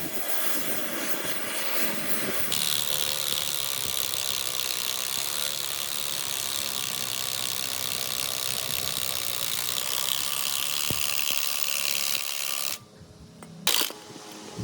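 A power tool running steadily, its noise turning brighter and hissier about two and a half seconds in, then stopping suddenly near the end.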